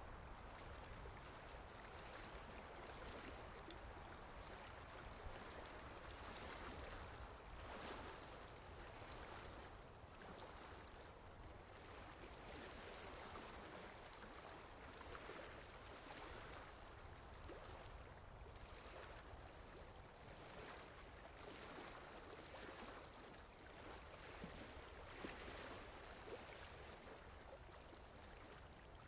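Steady rain falling, a soft, even hiss of water with the fine patter of many drops, swelling and easing slightly.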